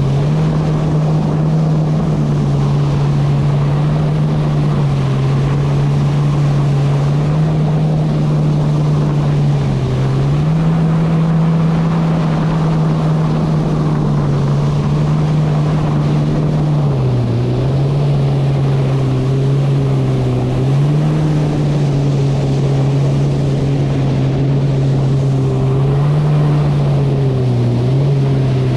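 Kawasaki SX-R 160 stand-up jet ski's 1500cc four-stroke engine running under way, its pitch stepping up and down every few seconds with the throttle. Wind and water rush run under it.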